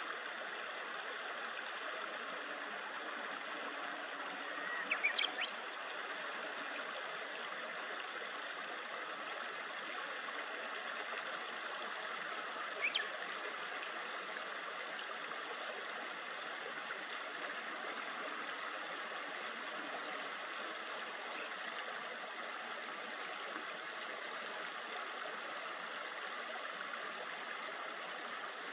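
A river murmuring steadily over shallows, with a few brief high chirps of small birds: a short cluster about five seconds in, then single calls around 13 and 20 seconds.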